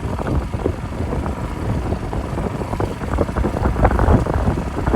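Strong wind buffeting the microphone: a loud, irregular low rumble that surges with the gusts.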